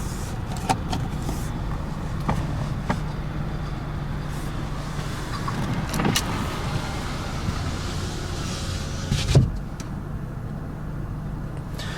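Steady low hum inside the Mazda CX-5's cabin, with a few light clicks from the interior being handled and a louder knock about nine seconds in.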